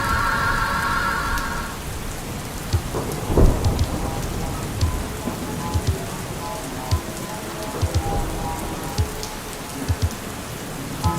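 Steady rain, with heavy drops thudding now and then and a low rumble of thunder about three and a half seconds in. A song's held closing chord cuts out in the first two seconds.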